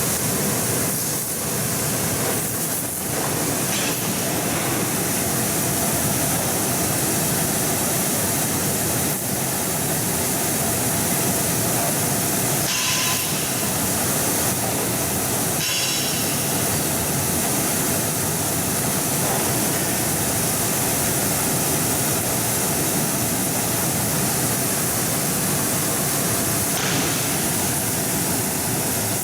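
Fruit washing machine running: a steady, even rush of churning water and machine noise, with two brief higher hisses about halfway through.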